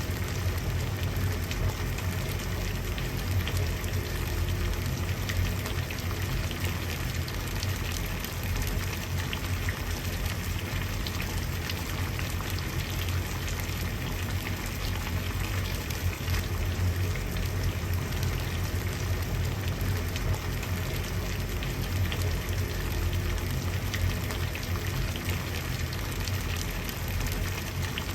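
Water at a rolling boil, a steady dense bubbling and crackling over a low rumble.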